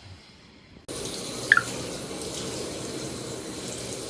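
Water running steadily, as from a tap, starting abruptly about a second in, with a brief high squeak about a second after that.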